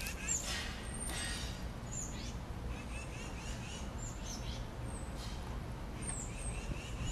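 Small birds chirping over a steady low background rumble: short high chirps about once a second, with a run of quick repeated notes through the middle.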